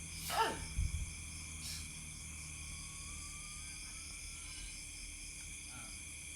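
Steady chorus of night insects. About half a second in, a brief loud sound slides quickly from very high to low pitch, followed by a couple of low thumps.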